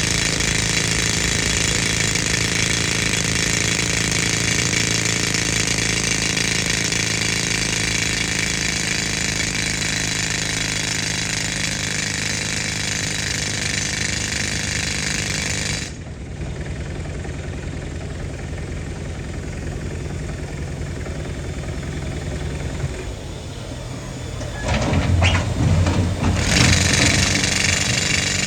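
Pneumatic rock drill hammering, fed by an old air compressor whose engine runs steadily underneath. About sixteen seconds in, the drill stops suddenly and only the compressor engine's low running is left. Near the end the engine grows louder and the drill starts hammering again.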